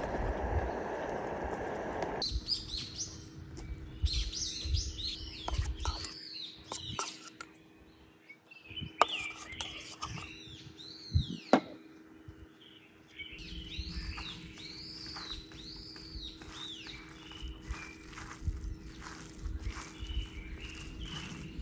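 Small wild birds chirping, with many short arched notes repeated throughout. A steady rushing noise cuts off about two seconds in, and scattered low thumps and a few sharp clicks occur in between.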